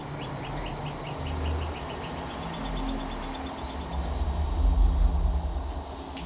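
Birds calling: a fast run of short, even chirps that speeds up, and a few short whistled glides, over a low rumble that swells twice.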